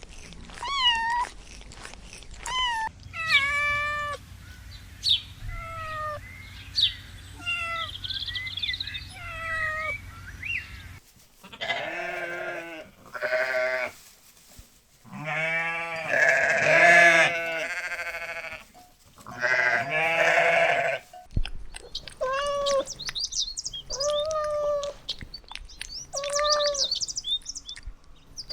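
A run of short, pitched animal cries, one after another, rising and falling in pitch. In the middle there is a louder stretch of lower, longer calls, several in quick succession.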